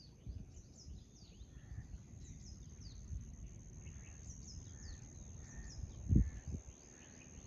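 Small birds calling with short, quick down-slurred chirps, repeated irregularly over a steady high-pitched whine. Low wind rumble underneath, with a single thump about six seconds in.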